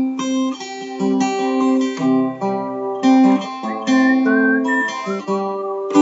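Acoustic guitar playing an instrumental break in a song, chords strummed and plucked with a new attack about once a second.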